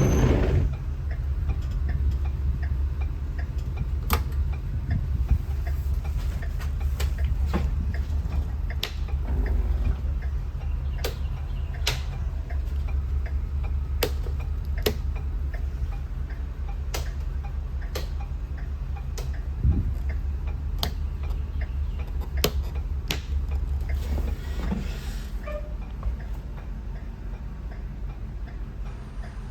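Ford E350 step van engine idling with a steady low rumble, with sharp ticks roughly once a second over it.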